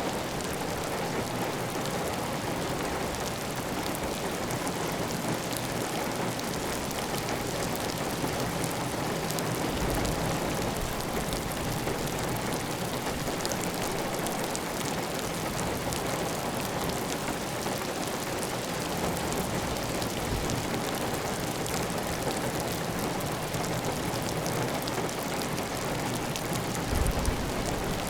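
Heavy, steady rain on a clay tile roof, with water running off the roof edge. There is a brief low thump near the end.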